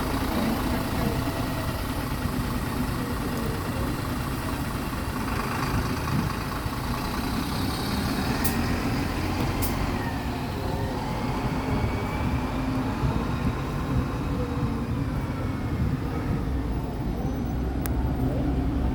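Mitsubishi Fuso Aerostar city bus's diesel engine idling steadily.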